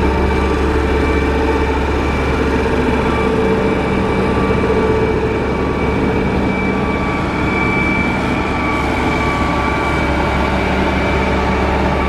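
Motor grader's diesel engine running steadily, with a steady high whine over the low engine sound.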